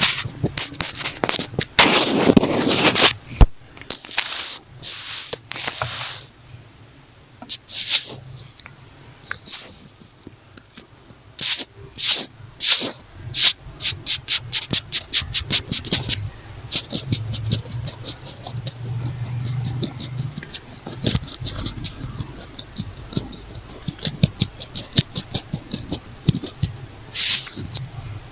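Close-up scratching and rubbing on a notebook cover right at the microphone. It comes in bursts of quick scratchy strokes, with a quieter stretch about a third of the way in.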